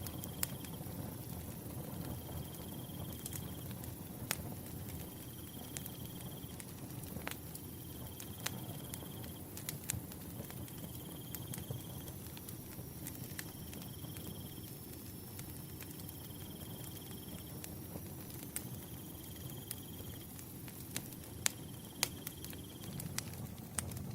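Firewood burning with scattered sharp crackles and pops over a low steady rumble, while a cricket chirps in short high trills about every two seconds.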